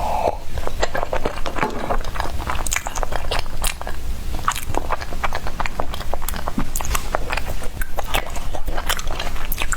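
Close-miked chewing of soft bread: an irregular run of wet mouth clicks and smacks, several a second, over a steady low hum.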